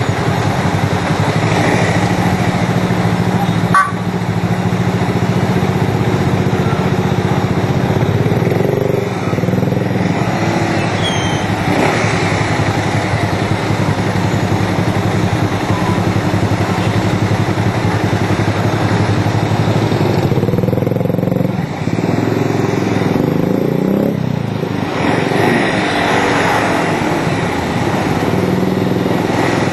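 Onboard sound of a 200cc single-cylinder motorcycle engine running at road speed, with wind and road noise. The engine note drops off briefly about 21 seconds in, then picks up again as the bike accelerates.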